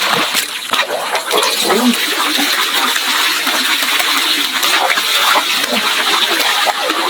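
Water gushing and splashing steadily, a continuous rush dotted with many small splashes.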